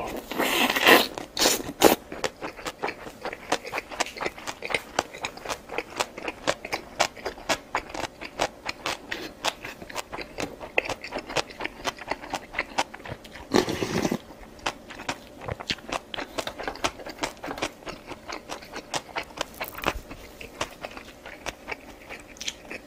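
Close-miked eating: a person chewing crunchy food in a steady run of crisp clicks and mouth noises. Two louder noisy bursts come about a second in and about halfway through.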